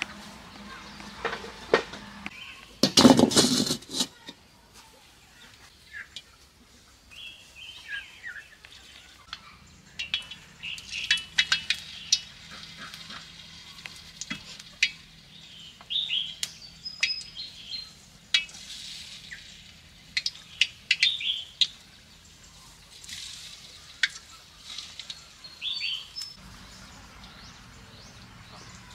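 Battered banana pieces sizzling in hot oil in a wok, with clinks of utensils and a loud clatter about three seconds in. Small birds chirp now and then.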